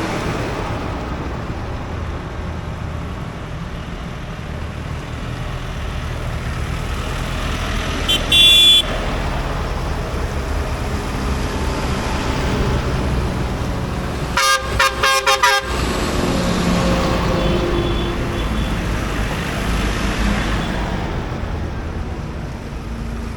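Tractor engines running steadily as the tractors go by, with one short horn toot about eight seconds in and a quick run of about five toots a few seconds later.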